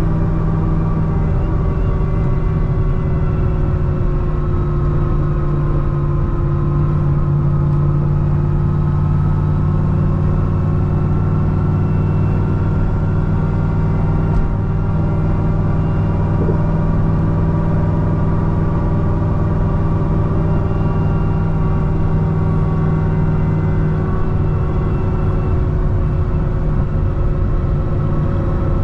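Supercharged 6.2 L V8 of a modified C6 Corvette ZR1 with a Kong supercharger, droning at a steady cruise. Its pitch drifts only slightly and the level stays even, with no hard acceleration.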